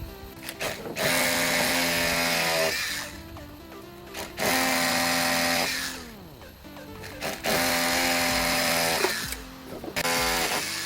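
A handheld electric power tool run in four short bursts of one to two seconds each, its motor winding down after each burst. Background music plays underneath.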